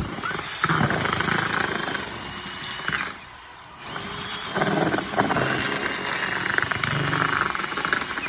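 A handheld power tool running as it stirs dry chicken feed in a bucket; it cuts out for under a second about three seconds in, then runs on again.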